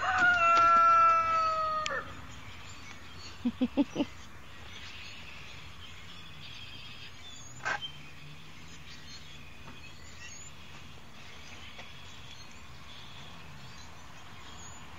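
A rooster crowing once, a single held call of about two seconds whose pitch sinks slightly before it breaks off. About a second and a half later come four quick, short, low sounds.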